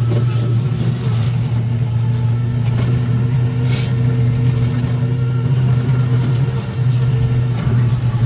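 Steady low motor hum running without a break, with a short hiss a little under four seconds in.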